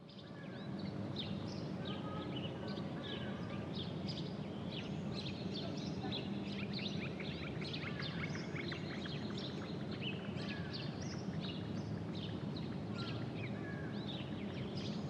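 Outdoor ambience: many small birds chirping and twittering continuously over a steady low rumble.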